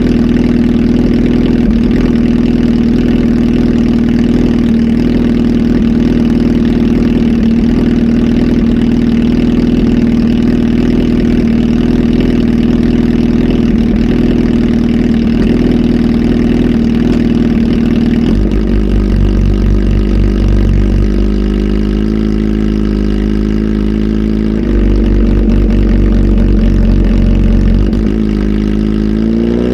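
Kawasaki Z H2 SE's supercharged inline-four, flash tuned and breathing through a full exhaust system, running at a steady held speed. About two-thirds of the way through, the note drops to a lower, uneven beat, and near the end it rises as the engine is revved.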